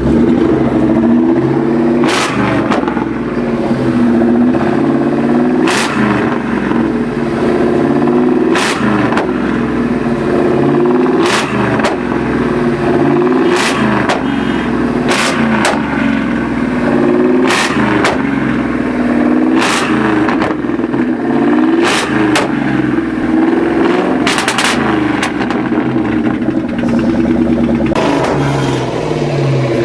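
A high-performance car engine revving hard and held at high revs. Its exhaust lets out a sharp bang every two to three seconds.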